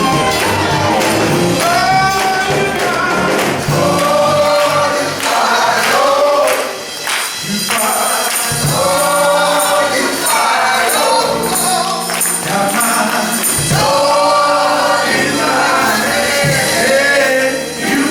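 A male gospel choir singing, with tambourine and band accompaniment.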